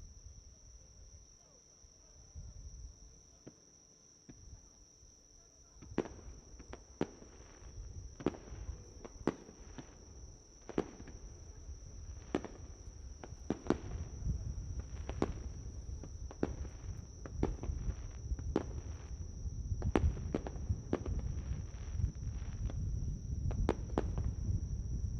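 Insects trilling in a steady high drone throughout. From about six seconds in, irregular sharp cracks of fireworks come about once or twice a second over a low rumble that builds toward the end.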